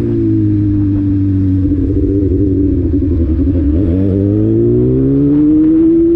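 Honda Hornet motorcycle's inline-four engine running under way. Its pitch dips about halfway through, then climbs steadily near the end as the bike accelerates.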